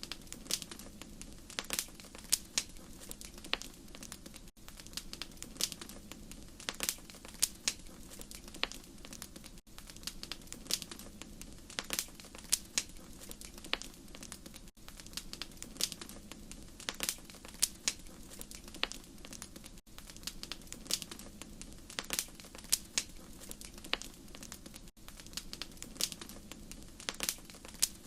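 Wood fire crackling, with frequent irregular sharp pops over a steady low background of burning.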